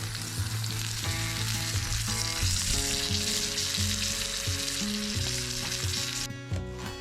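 Breakfast food sizzling as it fries in a pan, a steady hiss that cuts off abruptly near the end, with background music of held notes underneath.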